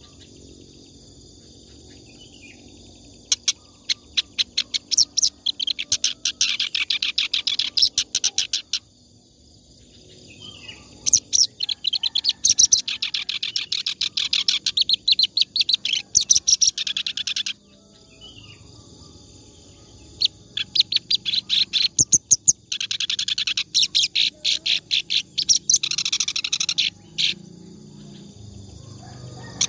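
Reed warbler (kerak basi) singing in three long bouts of fast, harsh, chattering notes with short pauses between them, the nonstop 'ngacor' song used as a master recording for training other songbirds.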